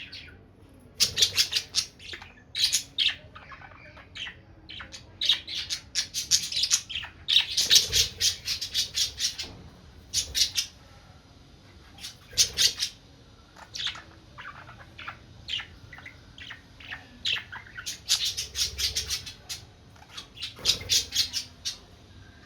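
Budgerigar chattering to itself: rapid runs of short, harsh chirps and squawks in bursts of a second or two, with brief pauses between them.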